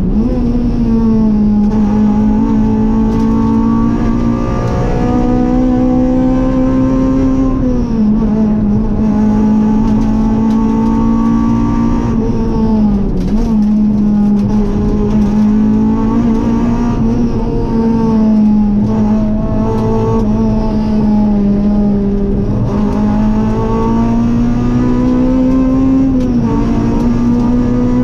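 Rally car engine heard from inside the cabin, running hard under load with a fairly steady pitch that dips briefly four times.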